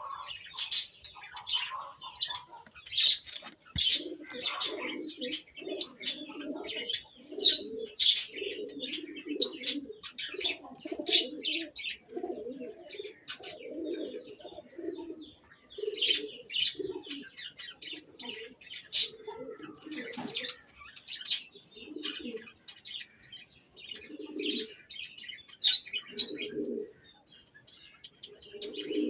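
Budgies chirping and chattering in quick, overlapping calls, over a low cooing call repeated about once a second.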